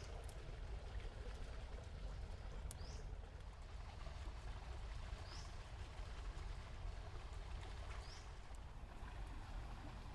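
A bird gives a short rising call four times, about every two and a half seconds, over a steady rush of flowing water with a low rumble.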